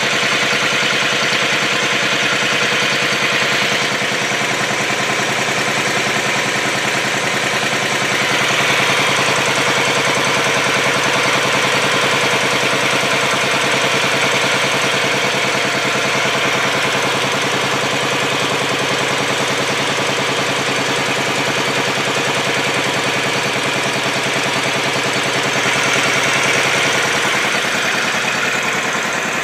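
Dnepr K-650 motorcycle's flat-twin engine idling steadily, with slight rises about 8 seconds in and again near the end.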